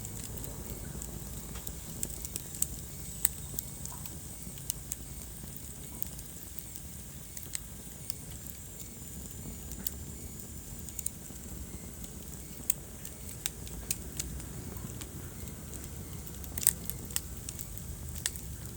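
Wood fire crackling in a fireplace: irregular sharp pops and snaps over a low, steady rumble of the flames, with a quick cluster of louder pops near the end.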